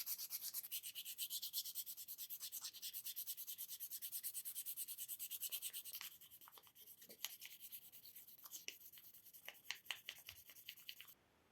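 Hand sanding of a jatoba hardwood carving: quick, even back-and-forth strokes of abrasive on wood, which about halfway give way to quieter, separate strokes with small clicks. The sound cuts off abruptly shortly before the end.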